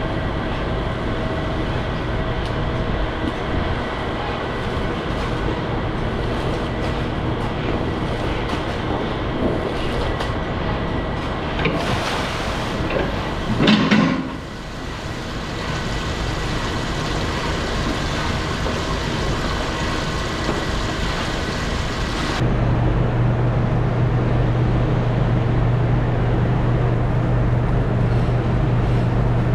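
Engine of farm machinery running steadily, with a louder swell about halfway through as the pitch rises and falls. It changes abruptly near the end to a steadier low hum.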